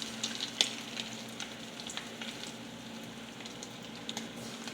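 Chicken nuggets shallow-frying in canola oil in a pan: a steady sizzle with frequent small pops and crackles. A faint steady hum lies underneath.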